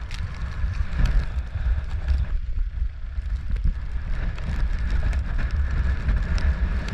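Wind buffeting the microphone: a loud, uneven low rumble with a faint hiss over it.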